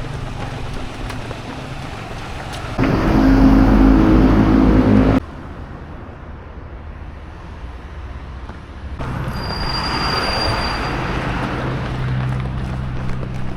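Engine noise in abruptly cut segments, loudest for about two seconds near the start as a steady low hum, then a quieter stretch, then a steady hum with a thin high whine from about two-thirds of the way in.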